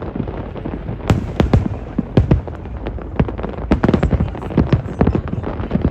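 Aerial fireworks display: a rapid, irregular barrage of shell bursts, several bangs a second, with the sharpest reports about a second and two seconds in.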